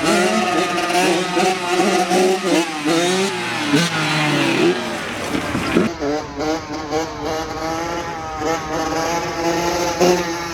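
Dirt bike engines running and being revved, the pitch rising and falling repeatedly, with an abrupt change about six seconds in.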